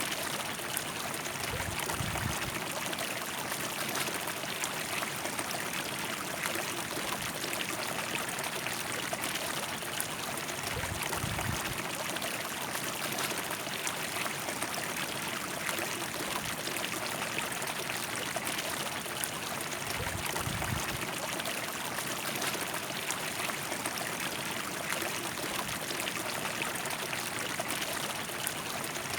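River water flowing in a steady, unbroken rush, with a few brief soft low rumbles.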